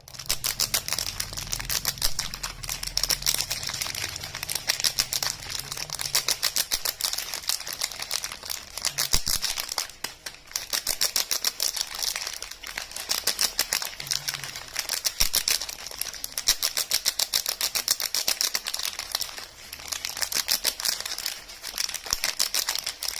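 Dense, rapid crackling and clicking from soap bars and their packaging being handled and unwrapped, with short lulls about ten and twenty seconds in.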